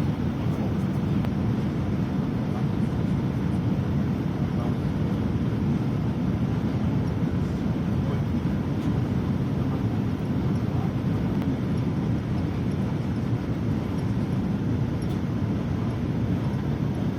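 Jet engines of a Boeing 787-9 airliner flying over, heard as a steady low rumble.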